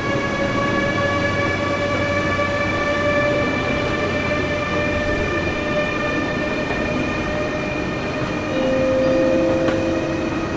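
Train in the station giving off a steady hum of several held tones over running noise. A second, lower set of tones joins about eight and a half seconds in.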